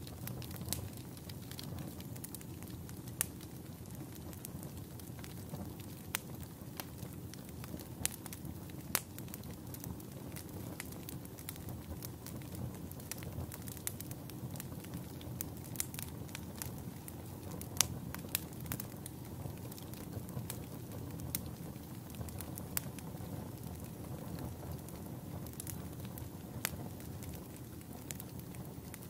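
Campfire burning: a steady low rush of flame with scattered, irregular sharp crackles and pops from the burning wood, the loudest pop a little past halfway.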